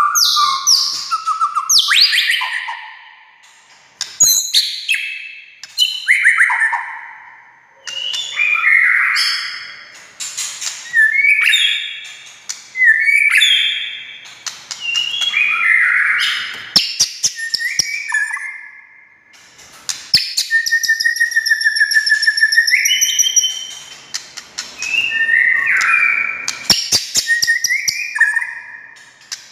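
White-rumped shama (murai batu) singing loud, varied phrases of rich whistles and sliding notes, separated by short pauses. Bursts of rapid clicking chatter come in between, and about two-thirds of the way through it holds one longer phrase, a steady trill under high ringing notes.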